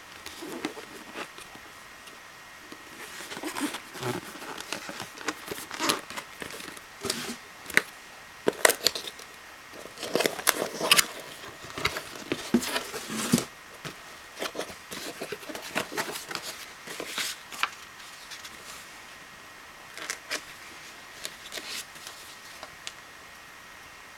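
Unboxing handling sounds: irregular clicks, taps and rustles of packaging, with crinkling plastic and cardboard, busiest through the middle and sparser near the end.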